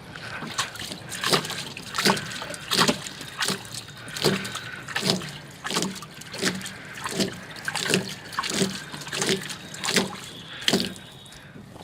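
Wet scrubbing strokes on a solar panel's glass: water swishing and sloshing in a steady back-and-forth rhythm of about one stroke every 0.7 seconds, stopping near the end.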